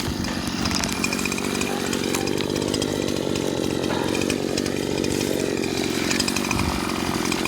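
A barely working gas chainsaw running steadily, cutting through the wood of a dead tree.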